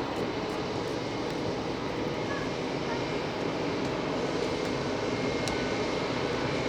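Jet engines of an Airbus A380 running at taxi power: a steady, even engine noise with a faint high tone above it.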